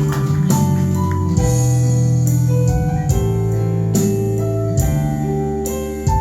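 Instrumental interlude of a live song: sustained keyboard chords and a melody line over a steady drum beat.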